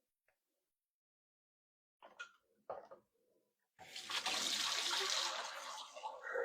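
A few short knocks, then water starts running steadily, as from a tap, a little more than halfway in.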